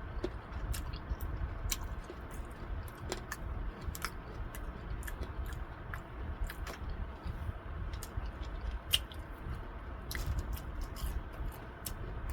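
Close-miked chewing and biting of fried chicken, with irregular crisp crunching clicks.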